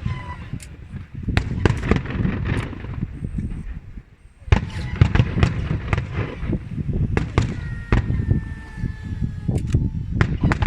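Aerial fireworks shells bursting in quick succession: many sharp bangs over a continuous rumble. A brief lull comes about four seconds in, then a loud bang restarts the barrage, and a few faint falling whistles are heard near the end.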